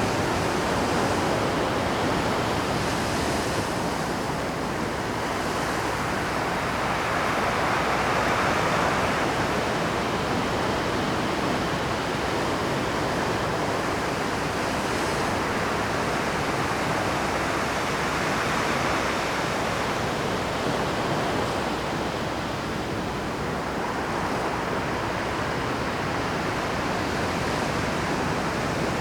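Rough Pacific surf breaking on rocks: a continuous wash of waves that swells to louder crests about every ten seconds.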